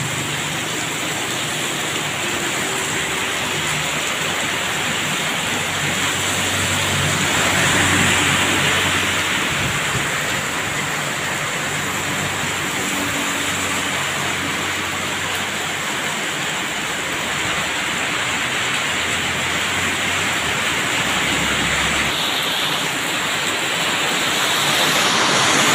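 Heavy tropical rain pouring down steadily onto the road and surroundings: a dense, even hiss that swells a little about eight seconds in and again near the end.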